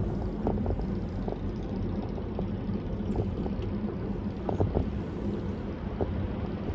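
Car driving at highway speed: steady low tyre and road rumble with scattered light clicks.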